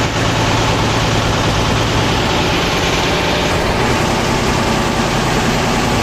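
An engine running steadily at idle-like speed, a low, even hum under loud steady noise.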